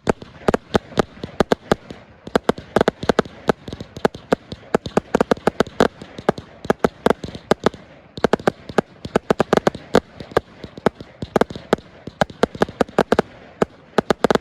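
A 100-shot firework cake (Precision Pyrotechnics Flawless Finish) firing its finale: a dense, rapid barrage of sharp shot reports, several a second, with a few brief lulls.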